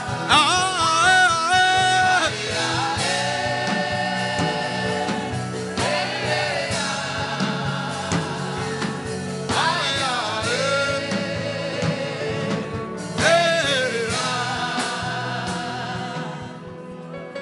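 Gospel worship singing with wavering, held notes over instrumental accompaniment, in several sung phrases; the music fades near the end.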